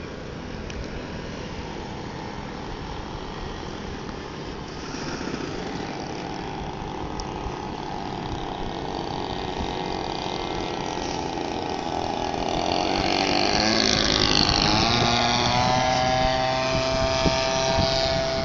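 Single-cylinder two-stroke DLE-20 petrol engine of a radio-controlled Cessna 182 model plane in flight, growing steadily louder. Its pitch slides as it passes close about two-thirds of the way in, then it settles into a steady note.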